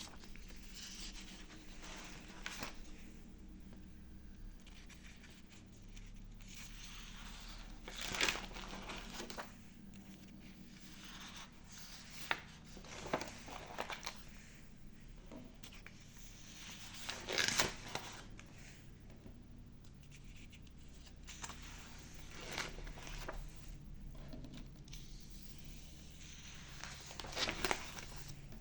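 Rustling and rubbing handling noises: about five short swishes spaced a few seconds apart, over a faint steady low hum.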